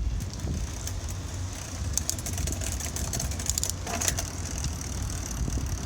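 Bicycle in motion: steady low rumble of wind on the microphone with tyre and drivetrain hiss, and a run of light clicks about two to four seconds in.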